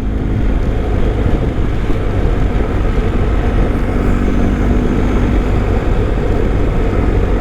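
Steady wind noise on the rider's microphone while riding, with the BMW R1250's boxer-twin engine running underneath at an even pace.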